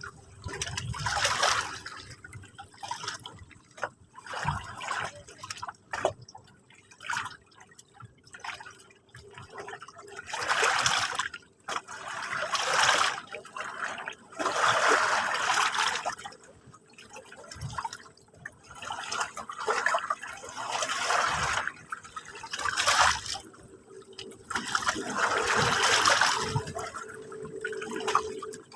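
Small sea waves lapping and splashing on the shore in irregular surges a second or two apart, the largest about halfway through and near the end.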